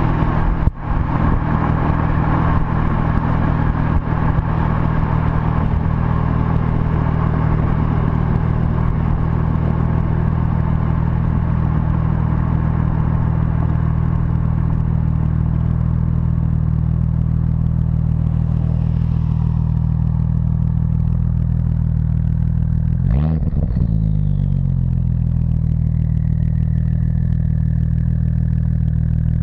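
APR Stage 2+ tuned Audi S4 with dual exhaust running with a steady deep drone, the engine pitch briefly rising and falling once, a short blip, a bit over two-thirds through.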